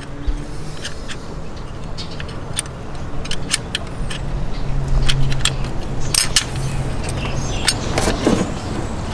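Irregular sharp metal clinks and taps of hand tools and bolts being handled under the engine, over a steady low hum.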